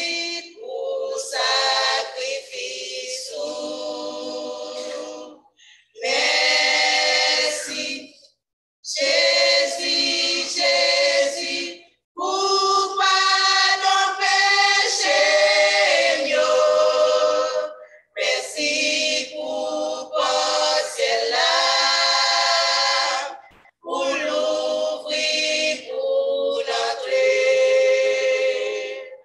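Gospel choir singing a cappella in Haitian Creole, in sung phrases of a few seconds broken by brief silences.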